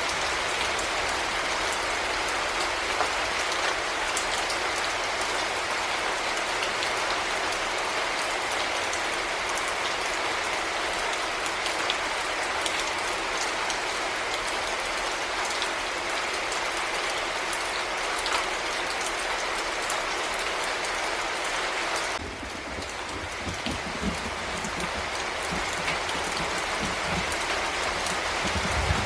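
Heavy rain falling steadily, a dense hiss with scattered sharper drop hits. About 22 s in the sound changes abruptly: slightly quieter and deeper, with more low rumble underneath.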